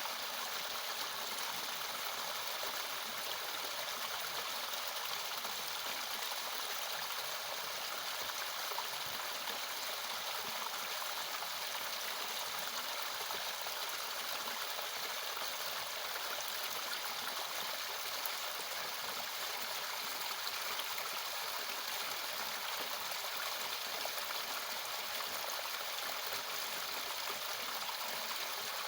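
A small natural mountain waterfall splashing and gurgling into a stream, a steady even rush of water.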